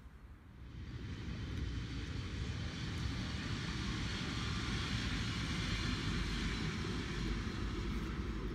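Double-deck electric passenger train passing at speed: a steady rushing of wheels on rail and moving air that swells in about a second in and holds.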